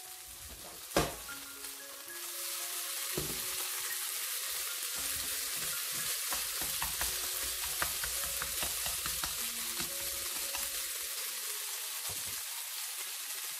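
Minced pork sizzling in hot oil in a nonstick wok, stir-fried and broken apart with wooden chopsticks. The sizzle builds about two seconds in and then holds steady. There is a single sharp click about a second in.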